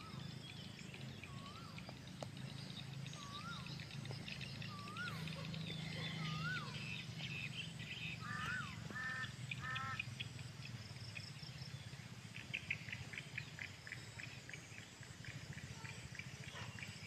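A bird calling a single whistled note that rises and falls, repeated about every one and a half seconds, over a steady low hum; from about twelve seconds in, a quick run of short high chirps takes over.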